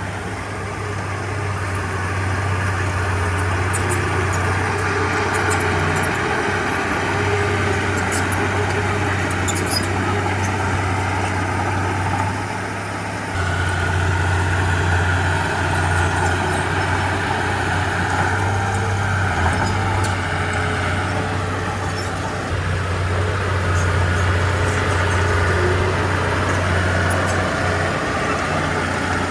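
Komatsu D31P crawler bulldozer's diesel engine running under load. The engine note changes several times, with a brief drop about twelve seconds in before it picks up again.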